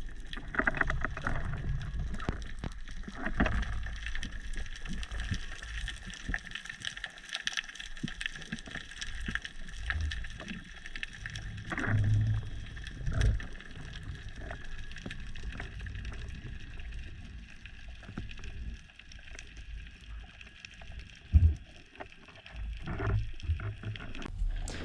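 Underwater sound picked up by a diver's camera: water rushing and gurgling against the housing, with a faint steady hum and a few muffled knocks.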